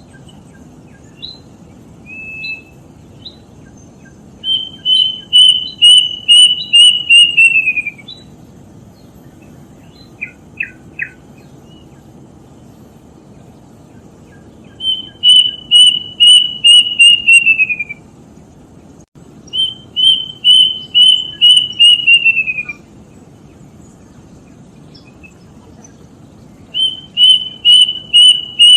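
Plaintive cuckoo (kedasih) singing: four runs of about eight quick whistled notes, each run sliding down in pitch at its end, with a few short single notes in between.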